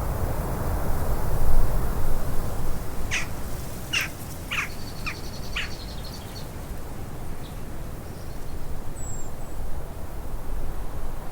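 Wild birds calling: a run of five short, sharp calls over about two and a half seconds, with a thin high trill alongside them, and a faint chirp later. Under them runs a steady low rushing noise.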